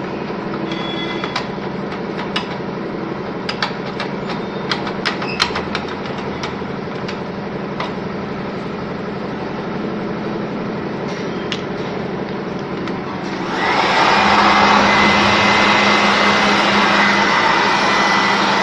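Steady motor hum with scattered sharp clicks of parts being handled; about 13 seconds in, a loud electric air blower switches on and runs with a steady rushing whine, blowing dust out of the note counting machine.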